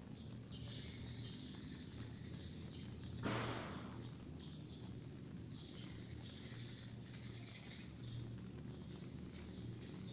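Birds chirping in the background over a steady low hum, with one brief swish about three seconds in.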